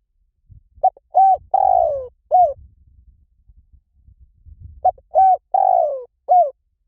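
Spotted dove cooing: two phrases about four seconds apart, each of four low notes, the third the longest and falling in pitch.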